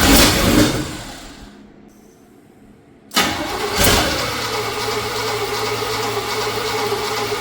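The carbureted engine of a 1984 Chevrolet K20 truck, newly revived, fires and revs briefly, then dies away over about two seconds. About three seconds in it catches again and settles into a steady run. It is running on fuel poured into the carburetor bowl, with the ignition timing just advanced.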